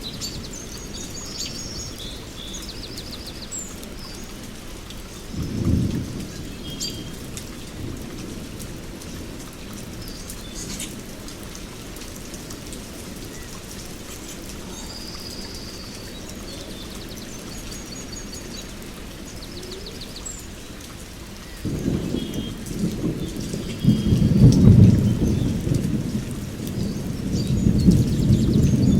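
Steady rain with small birds chirping. Low rumbles of thunder come through it: a short one about six seconds in, and a longer, louder one that begins about three-quarters of the way through and rolls on to the end.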